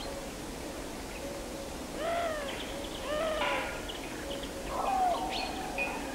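Wild birds calling: short low notes repeated every half second or so, with louder arching calls about two and three seconds in and a falling call about five seconds in.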